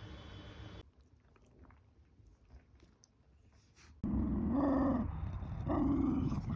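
A dog vocalising twice in quick succession, two short pitched sounds about half a second long each, after a few quiet seconds.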